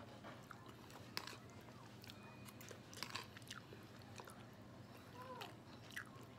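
A person chewing crispy fried chicken skin with the mouth close to the microphone: faint, scattered crunches and mouth clicks.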